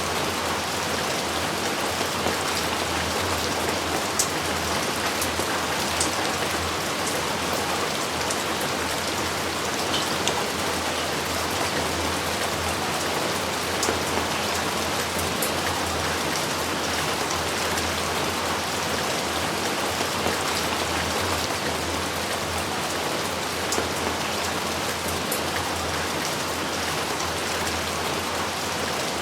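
Steady heavy rain, with a few sharper drop hits standing out now and then.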